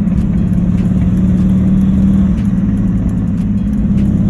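Turbocharged BMW E46 engine running under way with a steady drone that eases slightly in pitch midway and picks up again near the end. The owner believes the engine is knocking and blown.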